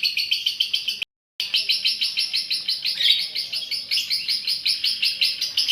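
Female lovebird singing a long, rapid chattering trill (the 'ngekek' of a fighter hen), high notes repeating many times a second. The trill drops out in a brief silent gap about a second in, then carries on.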